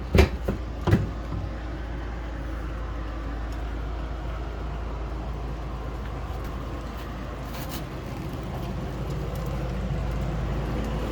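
Steady low outdoor rumble, with a few sharp knocks in the first second.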